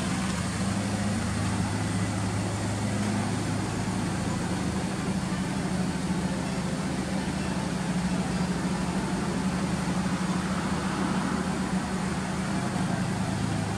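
Honda Accord Euro R's K20A inline-four engine idling steadily through a Mugen titanium muffler, a low, even hum.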